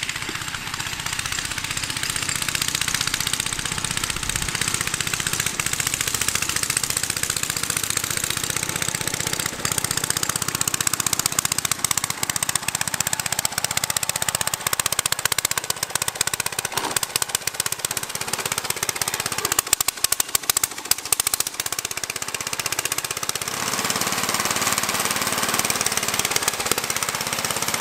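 Small gasoline engine of a homemade garden tractor running with a rapid, even firing beat as the tractor is driven. The engine note wavers about two-thirds of the way through and changes character near the end.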